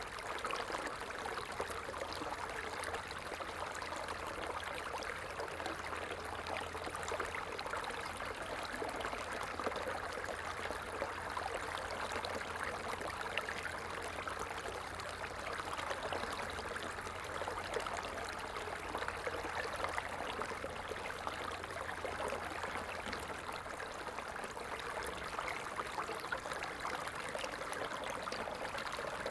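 A stream flowing steadily, a continuous rush of water with fine trickling and splashing detail. A faint low hum lies underneath and fades out about 24 seconds in.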